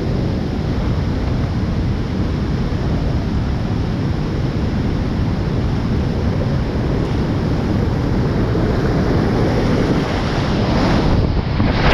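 Steady rushing roar of whitewater at a river waterfall, growing louder about eleven seconds in.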